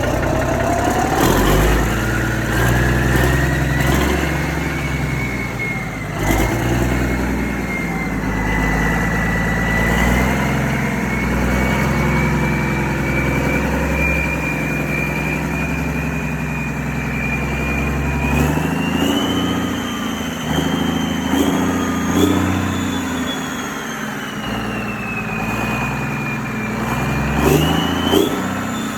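An engine running steadily, with a high whine over it that climbs quickly in pitch during the first two seconds and then slowly rises and falls while creeping higher. A few sharp clicks come near the end.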